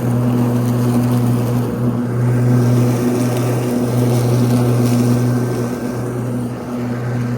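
Ryobi 80V electric riding lawn tractor mowing, its blade motors spinning the blades at medium speed with a loud, steady hum that dips briefly every couple of seconds.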